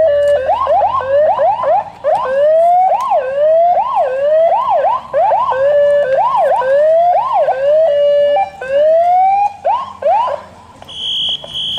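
Emergency vehicle's electronic siren going in a fast yelp, rising sweeps a few per second, with a short steady tone at the start and again about eight seconds in, then a slower wail before it stops about ten and a half seconds in. A high-pitched beeping follows near the end.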